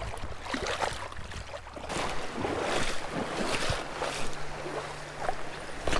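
Creek water splashing and rushing in irregular surges, with wind buffeting the microphone.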